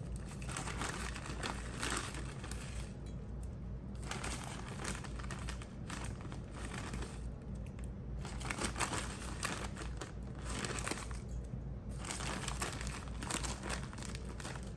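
Brown sugar packaging crinkling and rustling in irregular spurts, with small clicks, as brown sugar is scooped out by the tablespoon.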